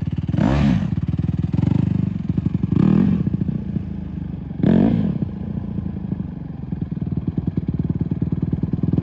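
Honda CRF150R dirt bike's single-cylinder four-stroke engine blipped up and down four times in the first five seconds as the throttle is opened and let off. It then settles to a steady lower running sound.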